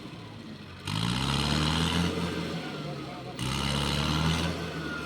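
Tractor diesel engine revving hard in two surges: the pitch climbs as it picks up about a second in, then it surges again after about three and a half seconds.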